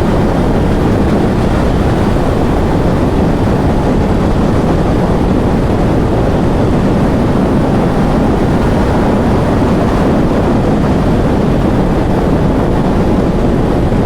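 Steady wind rush over a helmet microphone at highway speed, with a 2023 Kawasaki ZX10R's inline-four engine running underneath at an even pace, no revving.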